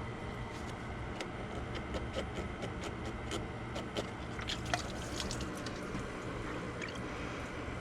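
Scattered light clicks and taps of hand work on the engine's cooling hose and parts, bunched about halfway through, over a steady low hum.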